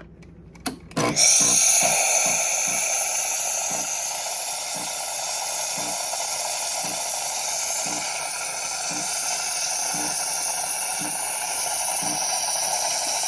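Home espresso machine making a double cappuccino: after a click about a second in, a loud steady steam hiss runs on, with a soft low pulse every half second to a second.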